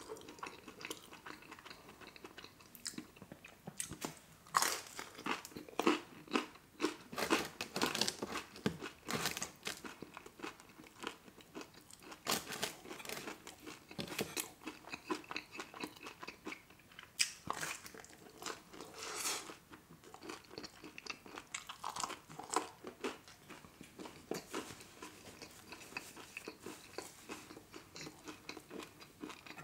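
Close-miked chewing and biting of sauce-dipped pepperoni pizza: irregular crunches and wet mouth clicks, one after another.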